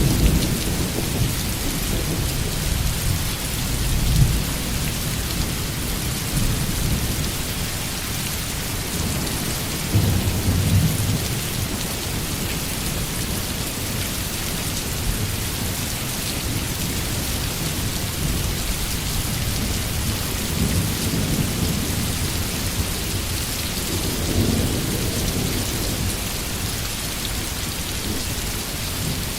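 Steady heavy rain hissing, with low rolling thunder rumbling several times: strongest at the start and about ten seconds in, with softer rolls around four seconds in and in the last third.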